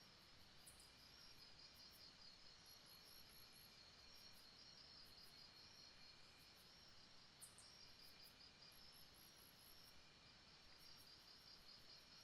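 Faint jungle ambience: insects chirring steadily in a fast, even pulse, with a short run of four high chirps twice.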